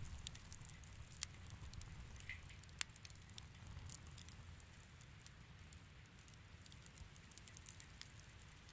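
Fire crackling in a fireplace: scattered small pops and fine crackles, the sharpest pop about three seconds in and the crackles thinning out after that, over a faint low rumble.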